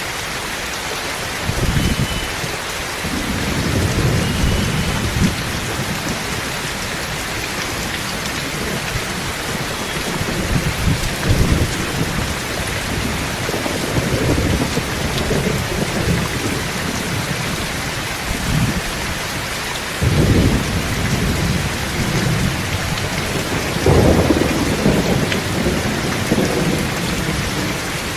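Steady heavy rain falling, with repeated low rolls of thunder rumbling through it, the loudest coming about 20 and 24 seconds in.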